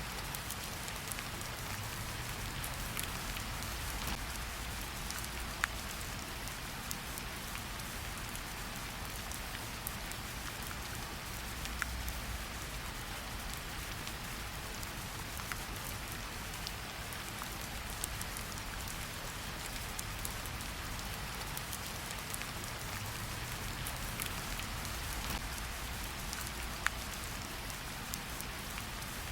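Steady forest rain: an even hiss of falling rain with a low rumble beneath and scattered sharp ticks of single drops landing close by.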